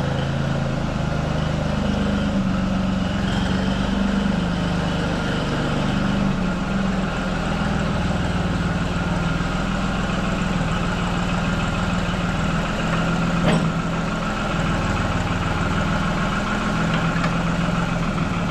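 John Deere farm tractor engine idling steadily, with one brief sharp knock about two-thirds of the way through.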